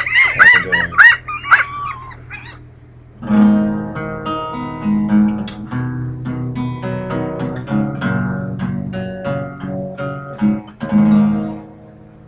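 A seagull calls rapidly and repeatedly for about the first two seconds. About three seconds in, an acoustic guitar starts strumming chords and plays on as the introduction to a song.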